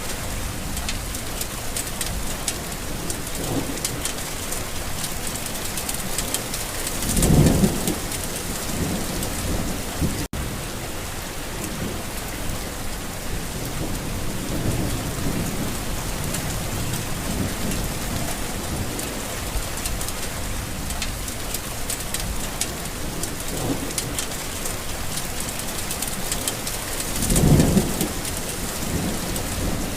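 Steady rain falling and pattering on a garden, with rolls of thunder rumbling low; the two loudest rumbles swell about a quarter of the way in and near the end, with fainter ones between. A very brief cut-out in the sound about a third of the way in.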